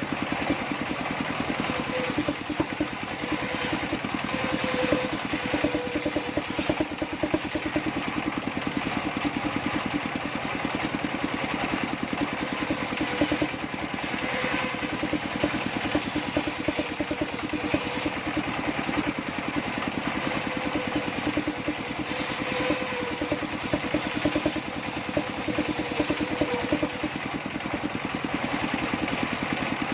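Engine of a circular saw bench running steadily with a rapid, even pulse.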